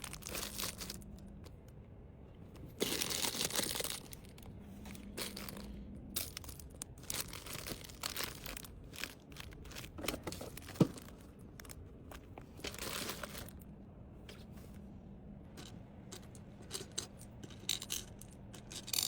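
Plastic packaging crinkling and rustling as small items are handled and packed, with scattered clicks and taps. The rustling swells about three seconds in and again past the middle, and a single sharp tap stands out near eleven seconds.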